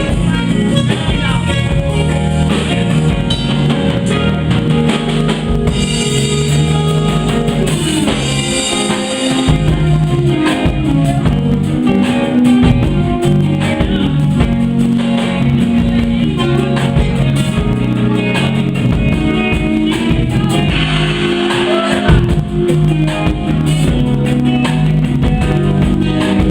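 A live band playing in a club: drum kit, electric guitar and bass.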